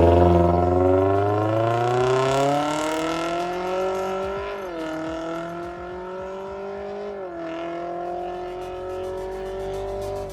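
Toyota Corolla Cross 1.8 four-cylinder engine through an MS-R valved cat-back exhaust, accelerating hard with its pitch climbing steadily. The pitch drops briefly twice, about four and a half and seven and a half seconds in, as it shifts up. It grows gradually quieter throughout.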